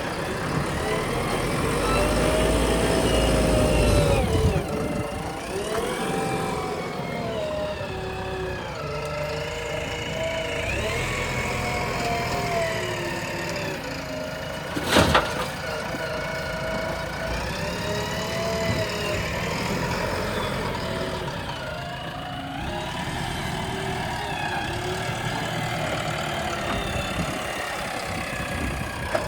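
Diesel engine of a JCB 3DX backhoe loader working, its pitch repeatedly rising and falling as it revs up and down under load. A single sharp knock comes about halfway through.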